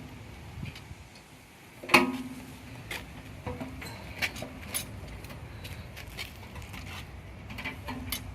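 Scattered clicks and light taps of parts and tools being handled while working on a motorcycle, with one louder, briefly ringing clank about two seconds in.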